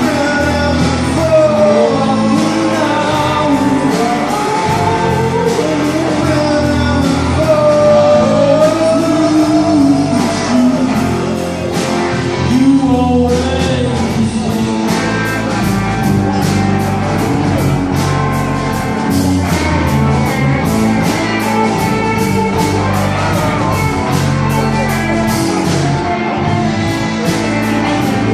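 A live band playing a bluesy rock song, with a voice singing over guitar. About halfway through, the vocal line thins out and a steady, driving beat takes over.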